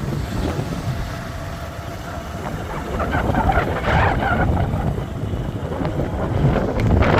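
Wind buffeting an outdoor microphone: a rough low rumble that rises and falls, louder about four seconds in and again near the end.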